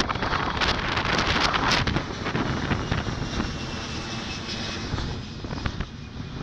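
A passing jet airliner under wind buffeting the microphone; a faint engine whine falls slowly in pitch as the noise fades toward the end.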